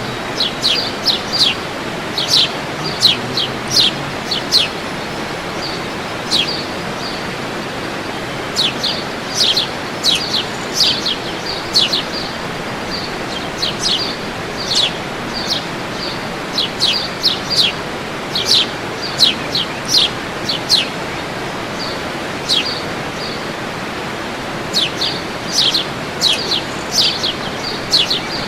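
Birds chirping in repeated quick runs of short, sharp, downward-sliding high notes over a steady rushing noise.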